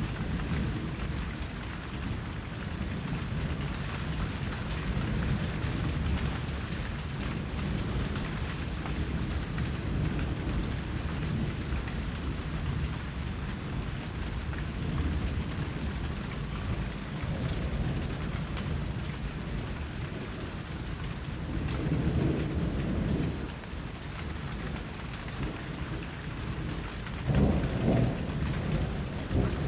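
Steady heavy rain falling, with thunder rumbling low beneath it. Two louder rolls of thunder come in the second half, the stronger one near the end.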